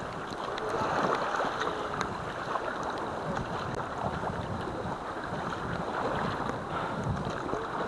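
Kayak out on open water: steady water noise from paddling and the hull moving through the water, with wind buffeting the microphone.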